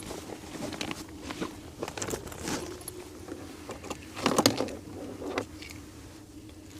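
Handling noise as a 12-volt light string is unpacked and fiddled with: scattered light clinks and rustles, with a louder clatter about four seconds in.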